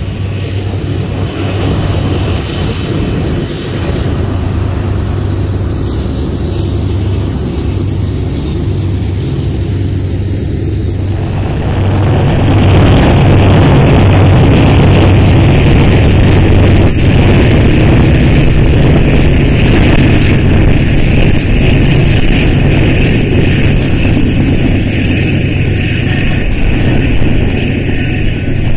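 BNSF freight train of covered hopper cars rolling past, a steady loud rumble of wheels on rail. About twelve seconds in, the sound jumps to a louder, duller recording of the train.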